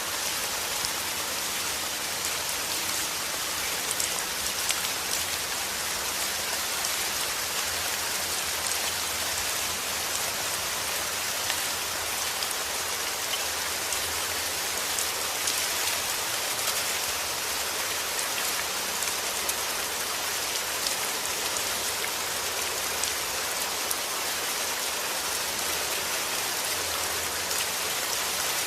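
Heavy rain falling steadily, a dense even hiss of drops with scattered sharper patters on a hard surface.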